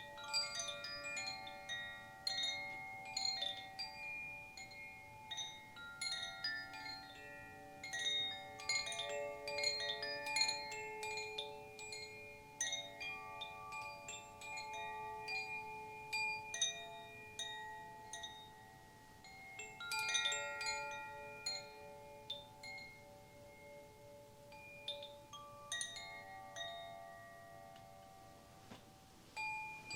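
Chimes being played, many bright ringing tones struck in overlapping clusters that fade out, in several waves with quieter spells between.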